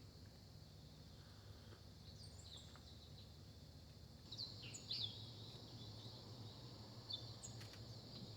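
Faint wild birds chirping: short, separate calls, the loudest a few chirps about halfway through and again near the end, over a steady high-pitched hum and a low background hum.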